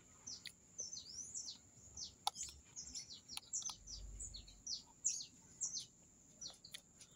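Small birds chirping: many short, high, quick downward-sweeping chirps repeated throughout, with a few faint clicks among them.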